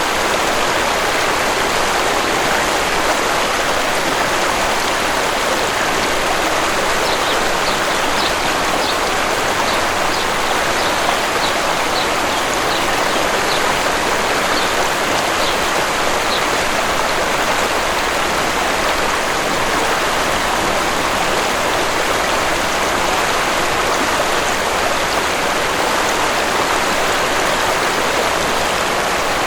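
Steady rushing of a waterfall, with a bird chirping in a quick series of short, high notes for several seconds in the middle.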